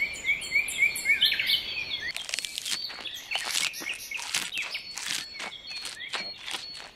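Small birds chirping. Repeated short rising chirps come first, then from about two seconds in a busier scatter of sharp, quick chirps.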